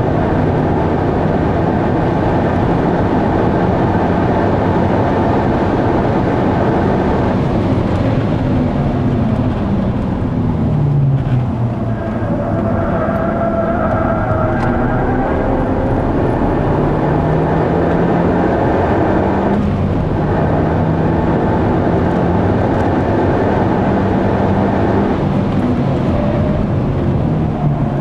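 Mazda 3 MPS's turbocharged 2.3-litre four-cylinder heard from inside the cabin, pulling hard on track over road and wind noise. Its pitch drops about ten seconds in as the driver lifts off, then climbs again through the gears, with upshifts near twenty seconds and again a few seconds before the end, and falls once more at the close.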